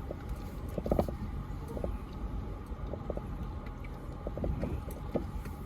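Toyota 4Runner crawling slowly over a rocky trail: a steady low engine rumble with scattered knocks and crunches of rock under the tyres and suspension.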